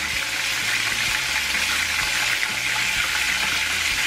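Flour-dredged chicken thighs sizzling steadily in hot oil in a frying pan.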